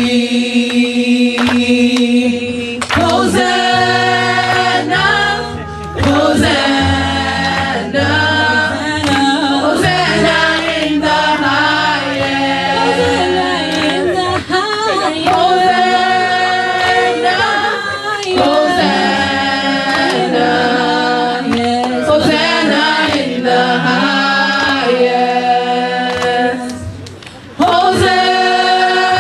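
A choir singing a gospel worship song over keyboard accompaniment with a bass line. Near the end the music dips briefly.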